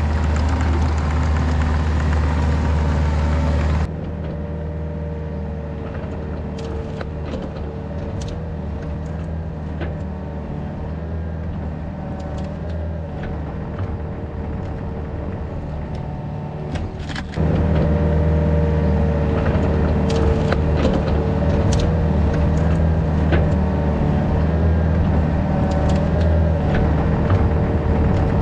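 Yanmar VIO50 mini excavator's diesel engine running steadily while it works, with occasional sharp knocks. The level drops abruptly about four seconds in and comes back up a little past halfway.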